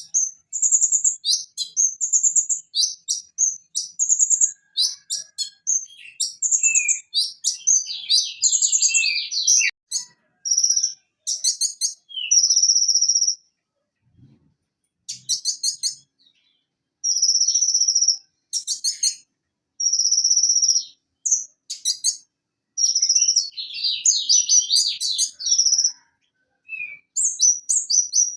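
Van Hasselt's sunbird (konin, Leptocoma sperata) singing: rapid high-pitched chattering note strings alternating with long buzzy trills, in bursts separated by short pauses.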